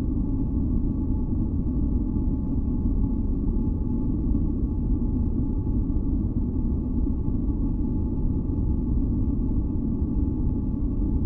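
Steady deep noise from a produced white-noise sleep track, heaviest in the low range, with a few faint held tones ringing above it.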